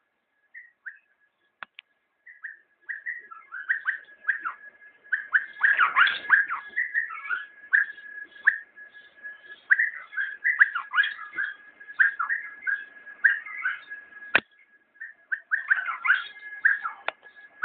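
A bulbul singing: a run of short whistled notes and chirps, sparse at first and then dense, whose phrases the uploader hears as the word "Allah". A thin steady high tone runs beneath the song, and there is one sharp click near the end.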